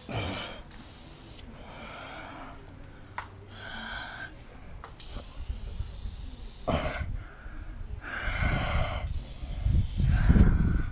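Aerosol can of silver aluminum rim paint spraying in repeated short bursts of hiss as a muffler is coated. A low rumble builds near the end.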